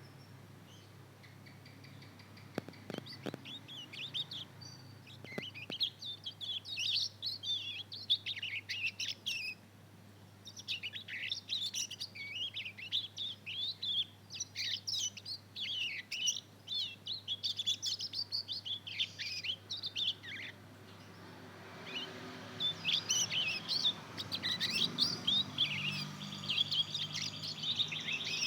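Young mozken (yellow-fronted canary × domestic canary hybrid) twittering its early practice song: runs of rapid high chirps, with short breaks about a third and two-thirds of the way through.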